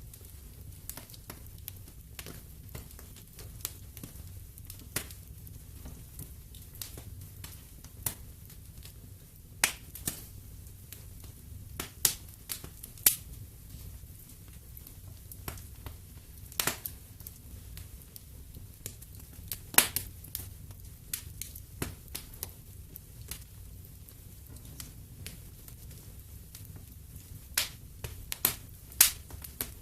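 Wood fire in a fireplace crackling, with irregular sharp pops and snaps, a few much louder than the rest, over a low steady rumble of the flames.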